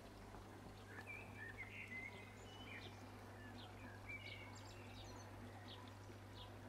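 Faint outdoor bird chirps, short calls scattered through the first half, over a low steady hum.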